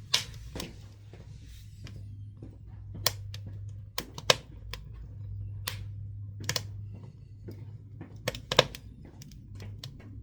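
Pine and scrap-wood firewood crackling in a wood-burning stove: irregular sharp pops and snaps, a few much louder than the rest, over a steady low hum.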